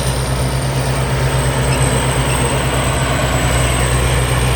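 Combine harvester's Hino J08C turbo diesel engine running steadily, with a thin high-pitched whine over the engine drone.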